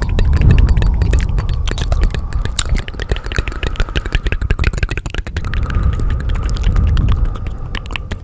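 Layered ASMR soundscape: a deep rumble that swells and fades under dense, irregular crackling clicks, with a faint steady tone running through.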